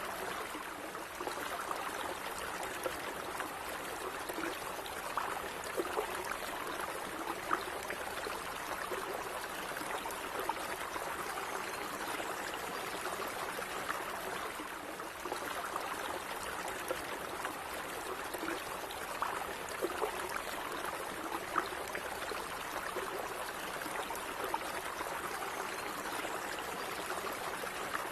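A small stream of running water flowing and trickling steadily, with light splashes and gurgles here and there.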